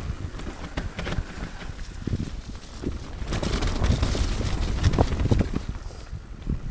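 Mountain bike ridden downhill over a wet, muddy trail: a steady run of knocks and rattles from the bike over rough ground, with rumbling wind on the microphone.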